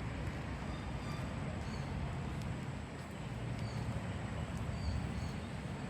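Outdoor ambience of a city park: a steady low rumble of distant road traffic, with faint short bird chirps now and then.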